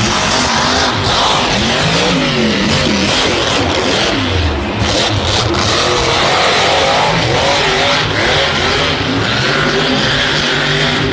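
Motor vehicle engines revving, their pitch repeatedly rising and falling, over a loud, steady, noisy background.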